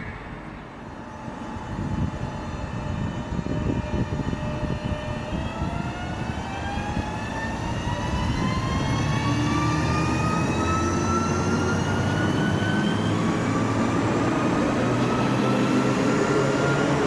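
SL X60 (Alstom Coradia Nordic) electric commuter train's traction motors whining, the whine rising steadily in pitch from about five seconds in as the train accelerates, over the rumble of the train on the track.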